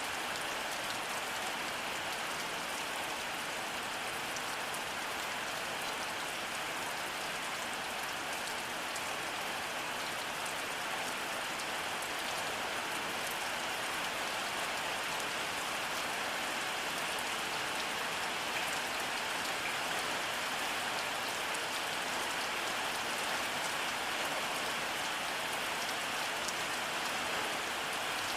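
Steady rainfall pattering on a surface, an even hiss of many drops with fine drop ticks, no thunder heard.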